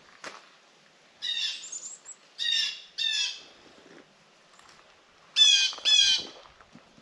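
A wild bird giving five loud, short calls: one about a second in, two close together around two and a half to three seconds, and two more near the end.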